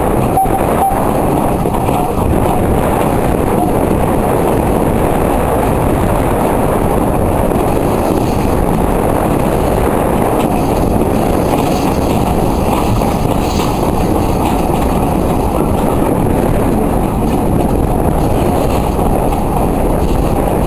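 Steady, loud rumble and rush of a moving railway carriage on the track, with wind buffeting the microphone at the open window.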